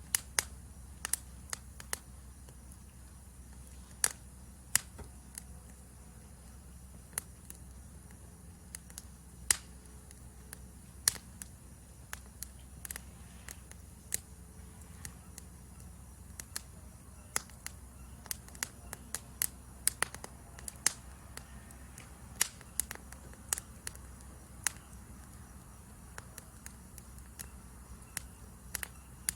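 Wood fire crackling, with irregular sharp pops, a few of them loud. Behind it runs a steady, faint, high-pitched chirring of forest insects.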